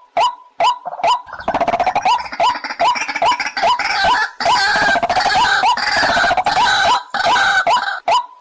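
White-breasted waterhen calling: short repeated notes about two a second, which thicken into a dense overlapping run of calls through the middle and then thin back to single notes near the end.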